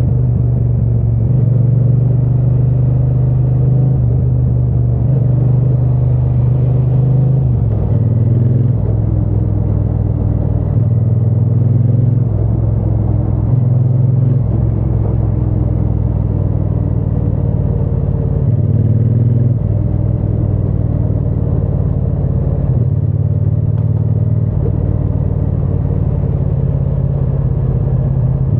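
Triumph Bonneville T120 parallel-twin engine and exhaust running under way, heard from the bike as it is ridden. The low exhaust note holds steady but shifts up and down several times as the rider changes speed.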